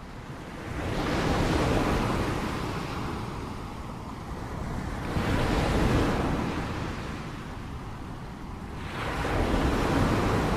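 Ocean surf: waves breaking and washing up three times, each swelling and fading over about four seconds.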